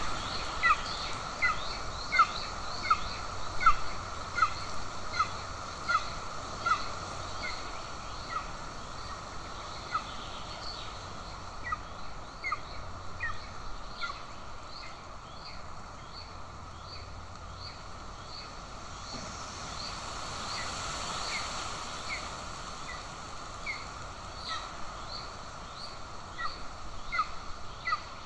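Golden eagle chick begging, a series of short, high, downward-slurred chirps at about two a second. The calls thin out in the middle and come quicker again near the end, over a steady background hiss.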